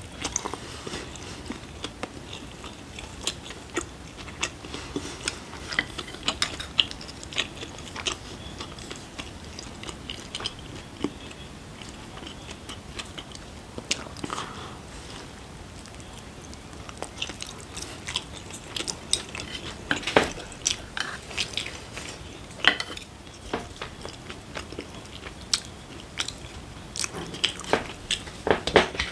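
Biting into and chewing a steamed mandu dumpling close to the microphone: many short, irregular wet mouth clicks, louder in clusters about twenty seconds in and near the end.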